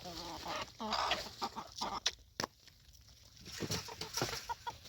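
Chickens clucking in short, repeated calls, with two sharp knocks a little after two seconds in.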